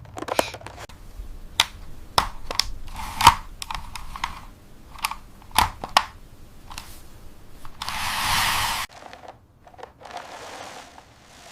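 Irregular sharp clicks and knocks of small hard objects, with a burst of hissing about eight seconds in that cuts off suddenly.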